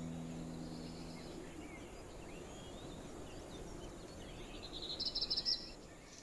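Birds singing, with scattered high chirps and a rapid high trill of quickly repeated notes about five seconds in.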